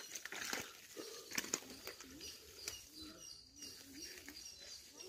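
Faint bird chirping, short high calls repeating, with a few sharp clicks.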